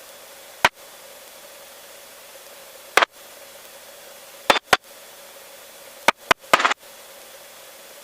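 Steady hiss of a helicopter's headset intercom with a faint hum, broken by short crackles of static: single clicks, a quick pair, and a longer crackle near the end, seven in all.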